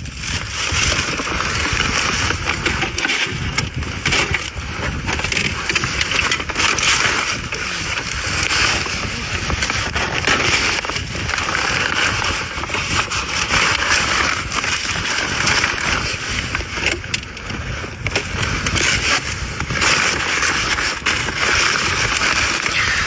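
Garbage truck running: a steady mix of engine and road noise with rattling, holding a fairly even level throughout.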